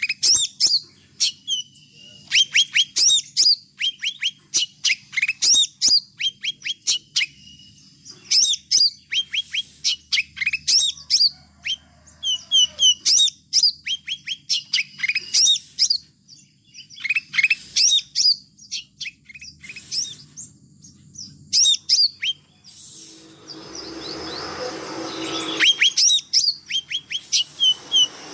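Small songbirds chirping continuously: quick clusters of short, sharp, high downward-sweeping chirps repeating throughout. Near the end a broader rushing noise with a low hum rises for a few seconds under the chirps.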